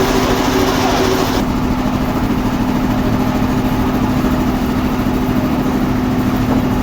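Sawmill machinery running steadily with a strong, even hum. A higher hiss over it cuts off sharply about a second and a half in, leaving the hum running on.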